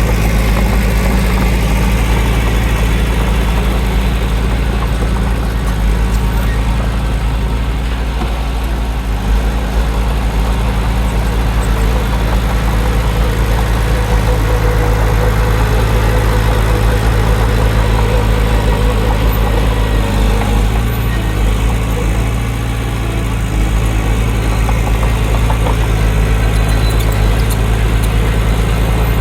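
Heavy diesel engine of an earthmoving machine running steadily under work, with a deep, even engine note and a brief dip in loudness about three quarters of the way through.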